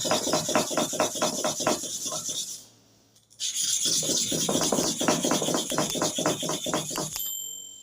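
Hair-clipper blade rubbed back and forth flat on a sharpening stone in quick, even strokes, about five a second, grinding the blade's inner face level. The strokes break off briefly about two and a half seconds in, then resume until shortly before the end.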